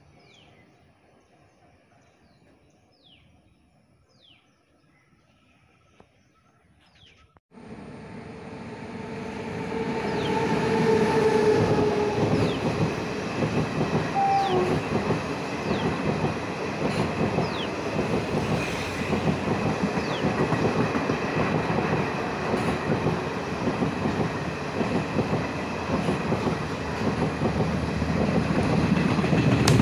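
Small birds chirping against quiet surroundings for about seven seconds, then an abrupt change to a long passenger train, train 12201 (a Garib Rath express), rolling past close by. The rumble and rattle of its coach wheels over the rails build over a few seconds and hold steady.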